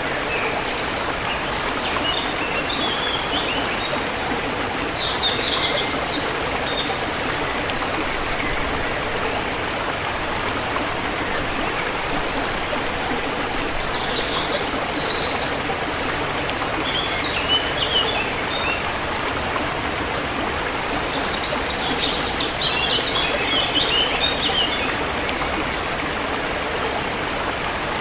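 A forest river flowing steadily, with birds chirping in short bursts several times over it.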